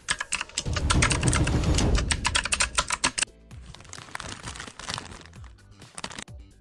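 Rapid, irregular rattling clicks over a low rumble, loud for about three seconds and then fainter: the rear rattle of a Honda SP 125 motorcycle.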